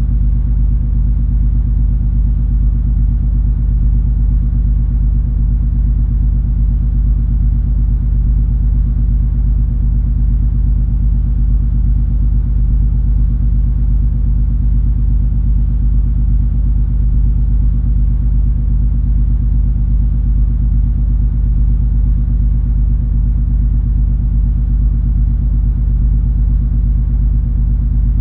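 Steady low rumble and hum of the cruise ferry MS Color Fantasy under way, its engines and hull droning without change.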